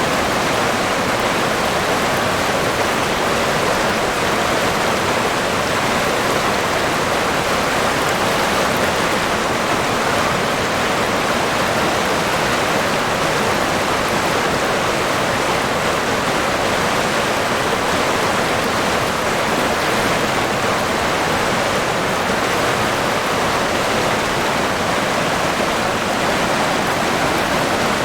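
River water rushing and babbling in a steady, unbroken flow.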